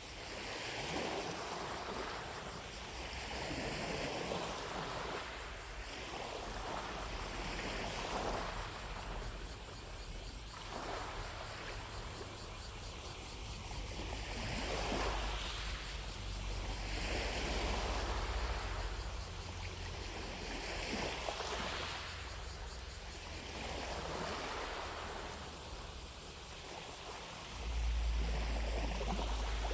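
Small lake waves lapping on the shore, washing in and fading every two to three seconds, with a steady high buzz of distant cicadas behind them. A low wind rumble on the microphone swells near the end.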